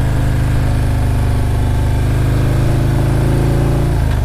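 Harley-Davidson Milwaukee-Eight V-twin engine running steadily under way, its pitch creeping up slightly, with a brief break and change in pitch near the end.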